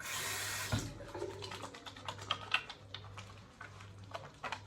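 A short rush of noise, then a run of small irregular clicks and rubbing: soaped fingers working a too-tight ring off a finger.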